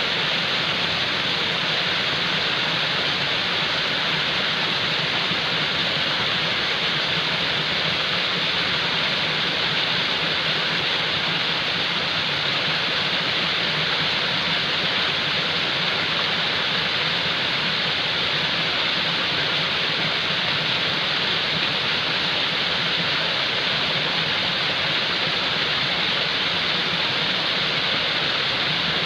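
Falling water: a steady, unbroken rush of water with no change in level.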